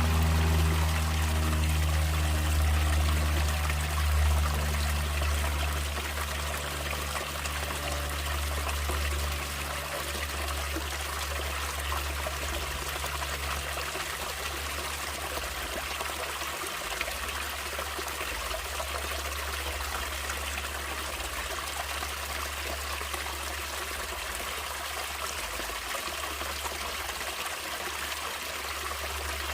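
Natural stream water flowing and trickling steadily. Background music fades out over the first several seconds, leaving only the water.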